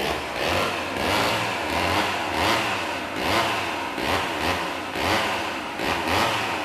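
Chainsaw engine revving up and down over and over, about twice a second, starting abruptly: a sampled chainsaw at the opening of an industrial track.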